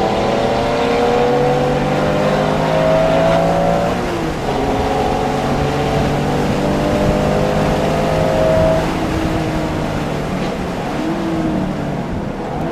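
Porsche engine at speed on a race track, revving up through a gear, dropping at a gear change about four seconds in, revving up again, then backing off near nine seconds, with a brief rev blip of a downshift near the end.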